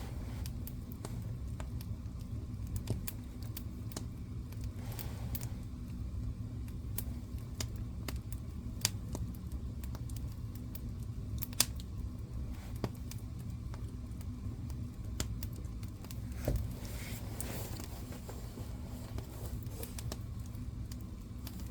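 Wood fire burning in a fireplace: steady crackling with many small pops over a low rumble, a few sharper pops standing out, and brief soft hissing flare-ups.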